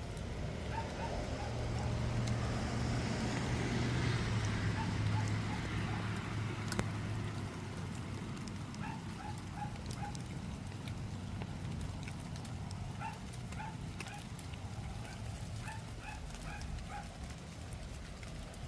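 Steady rain falling, with a vehicle passing: a low hum swells to a peak about four to five seconds in, then fades. Short high chirps come in small runs through the later part.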